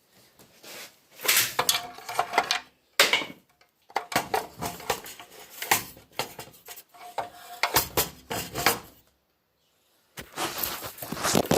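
Metal parts and junk clattering and clinking as they are picked up and tossed together, in several bursts with short pauses between.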